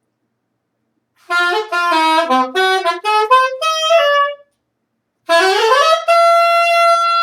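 A solo wind instrument played live: a phrase of notes stepping mostly downward starting about a second in, a short pause, then a quick rising run up into one long held note.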